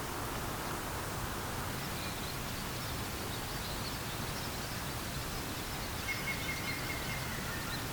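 Steady rushing of river water, with small birds chirping faintly and high from about two seconds in. Near the end there is one thin, high held note that falls slightly.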